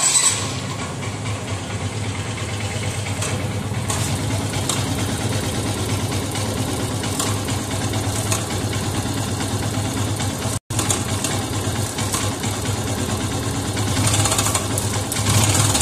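Yamaha FZS V3's single-cylinder engine idling with a loud mechanical clatter, like a whole tractor; the mechanic traces the noise to a loose, worn cam chain.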